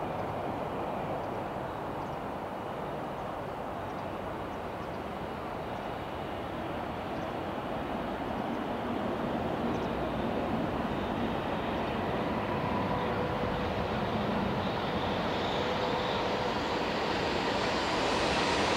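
Electric freight train approaching, its rumble growing slowly louder over a steady background hum, with a faint high whine coming in during the second half.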